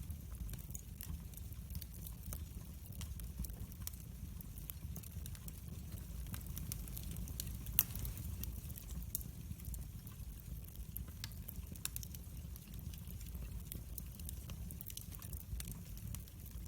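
Wood fire in a fireplace crackling, with many small scattered pops over a low steady rumble; one louder pop about eight seconds in.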